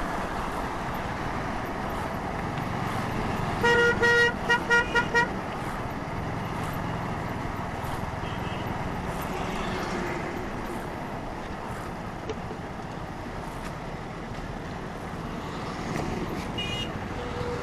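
Vehicle horn honking about four seconds in: one short blast followed by a quick run of about five toots, over steady road and engine noise. A second, brief higher-pitched horn sounds near the end.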